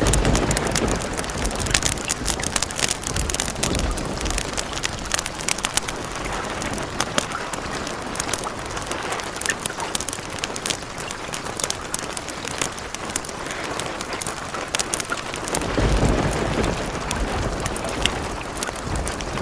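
Steady rain with sharp crackles from a fireplace, and low thunder rumbles twice: once at the start and again about sixteen seconds in.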